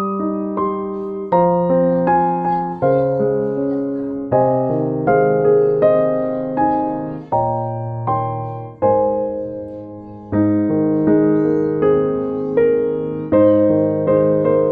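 Background music: a piano playing a gentle melody over held chords, with notes struck every half second or so.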